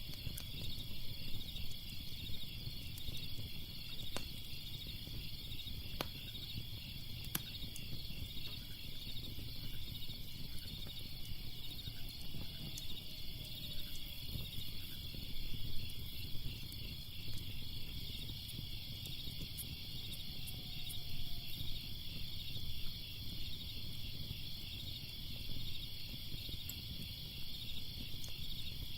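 Crickets chirping in a steady, fast-pulsing chorus, with scattered sharp crackles of a fire and a low rumble underneath.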